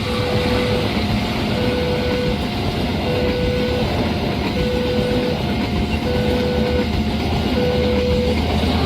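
Railway level-crossing warning alarm sounding a repeating electronic tone, about one every one and a half seconds. Under it runs the steady low rumble of a train.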